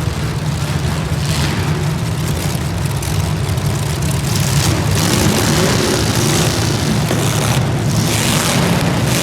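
Steady low rumble with bursts of hiss about five, six and eight seconds in.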